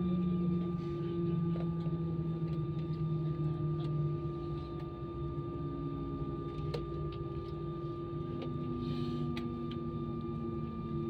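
A steady mechanical hum made of several held tones, two of the lower ones slowly sinking in pitch, with scattered light clicks.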